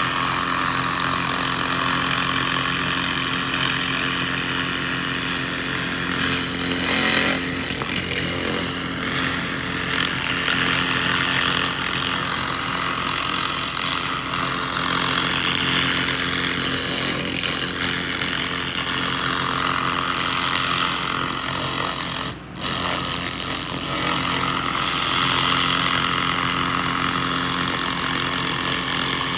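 A 2000 W laser rust remover ablating rust from metal, making a steady buzzing hiss over a constant machine hum. It cuts out for a moment about two-thirds of the way through.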